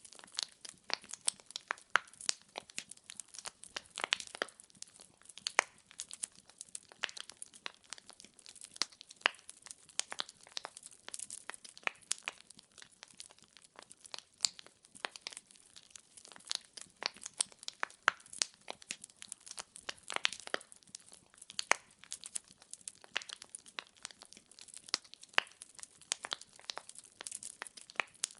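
Wood fire crackling, with frequent irregular sharp pops and snaps of burning logs.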